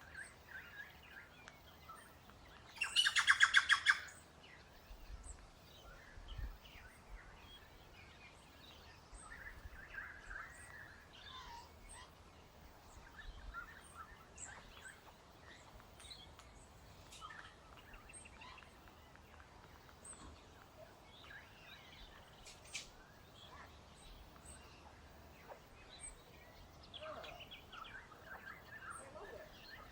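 Birds chirping: faint scattered chirps throughout, with one loud, rapid trill lasting about a second, about three seconds in.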